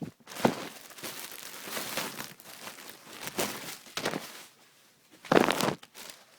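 Packaging crinkling and rustling in irregular bursts as a new T-shirt is unwrapped by hand, with a louder crackle near the end.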